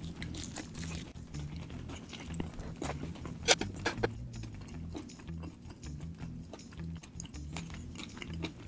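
Close-miked chewing of a mouthful of fried chicken, with a couple of sharp clicks about midway.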